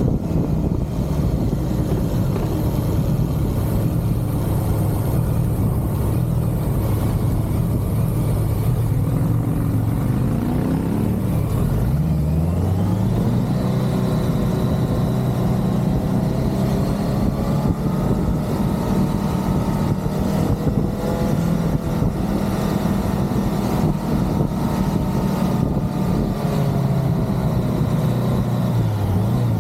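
Motorcycle engine running at road speed, its pitch rising about twelve seconds in as it accelerates, then holding steady until it drops back near the end.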